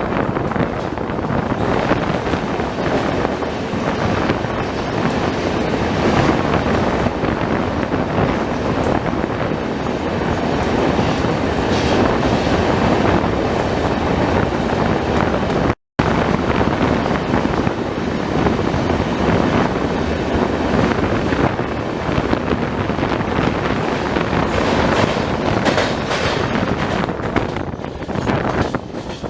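Swaraj Express passenger train running on the rails: a steady rolling rumble of wheels on track with wind noise. The sound drops out for a split second about halfway.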